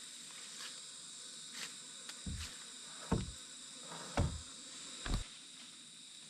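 Insects, crickets or cicadas, trilling steadily, with four dull thumps spaced about a second apart through the middle of the stretch.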